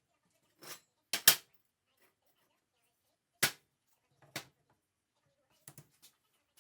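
A few separate sharp knocks and clicks with quiet between them. The loudest is a quick double knock about a second in, and a single strong one comes about halfway through.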